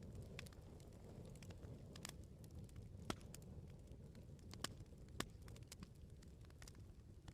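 Wood bonfire crackling: scattered sharp pops and snaps over a low, steady rumble of burning, with the loudest pops about three seconds in and twice around five seconds.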